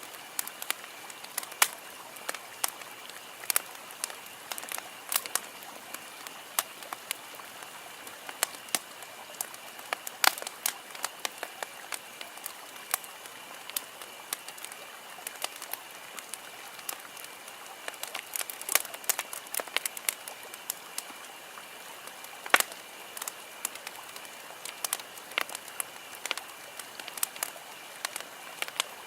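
Wood campfire crackling: irregular sharp pops and snaps over a low steady hiss, with one louder pop about two-thirds of the way through.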